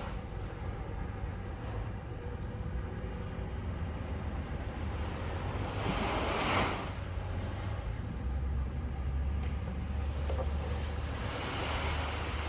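Ocean waves breaking and washing in, with one louder surge about six seconds in, over a steady low rumble.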